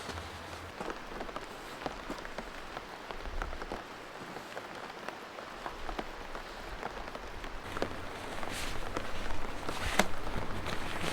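Rain pattering steadily, with many separate drop hits, growing louder over the last few seconds with a few heavier strikes.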